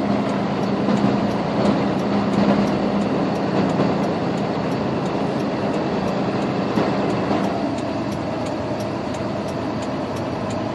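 International 4300 box truck's DT466 inline-six diesel engine running steadily, heard from inside the cab as the truck reverses slowly down the street.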